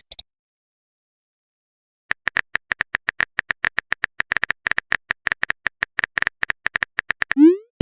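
Phone on-screen keyboard typing clicks, a fast run of short, even clicks for about five seconds after a silent start, then a short rising swoop as the chat message is sent.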